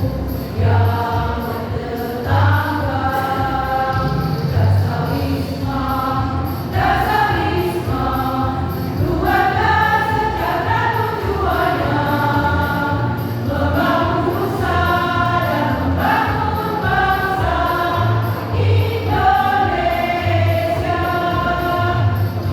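Choir singing a song together, with sustained sung notes changing pitch, over a low pulsing beat.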